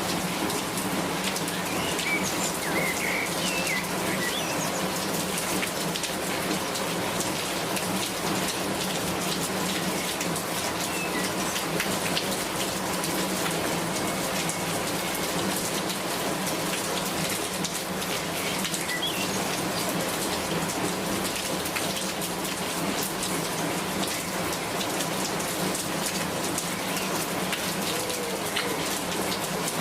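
Steady rainfall, an even hiss with many individual drop hits ticking through it.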